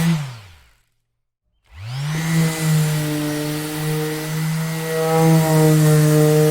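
Electric orbital sander running, then switched off: its motor hum drops in pitch as it spins down to a stop. After about a second of silence it is switched back on, spins up with a rising whine, and runs steadily again.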